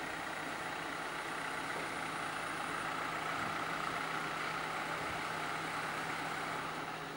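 Car engine running as the sedan pulls up and stops, a steady hum that fades a little near the end.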